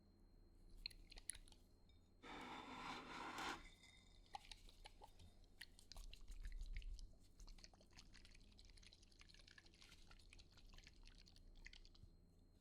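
Faint close-up handling sounds of packing materials: a dense rustle a little over two seconds in, then many small crackles and light taps.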